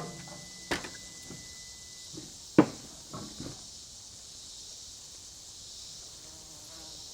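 Steady high-pitched drone of an insect chorus, broken by a few sharp knocks, the loudest about two and a half seconds in.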